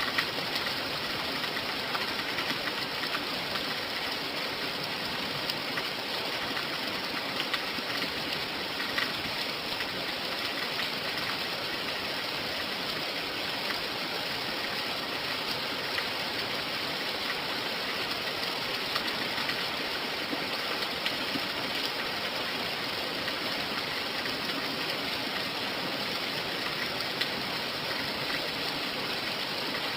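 Steady rainfall, an even hiss with scattered louder drop ticks.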